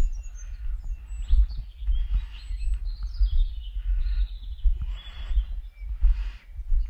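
Small songbirds chirping and twittering in forest, with a steady low rumble on the microphone and soft, evenly spaced footsteps about once a second.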